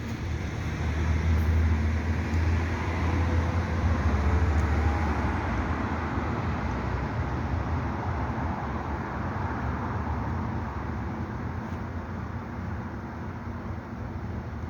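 Rumble of a passing road vehicle, loudest a few seconds in and then slowly fading.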